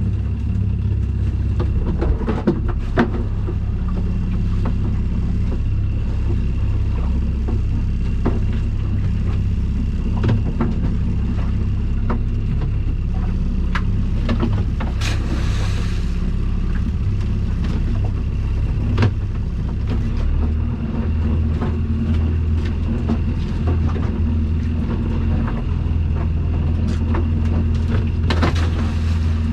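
Small boat's outboard motor running steadily under way, with a few knocks scattered through; its note shifts about two-thirds of the way in.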